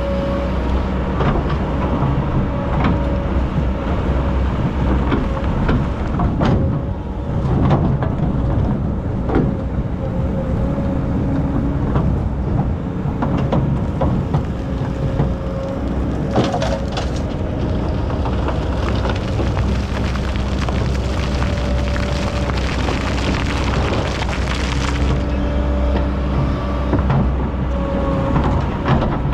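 Excavator's diesel engine running steadily, with a whine that rises and falls in pitch as the hydraulics work, and repeated knocks and cracks as the bucket digs into sand.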